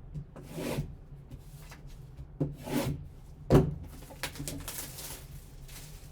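Hands opening a sealed trading-card box: packaging rubbing and swishing in short strokes, with one sharp knock about three and a half seconds in.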